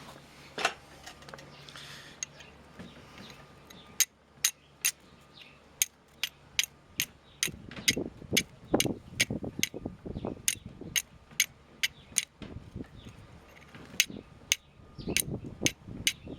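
Flint and steel: a small steel file struck against flint to throw sparks, making a run of sharp, crisp clicks about two a second, with duller knocks of handling mixed in from about eight seconds in.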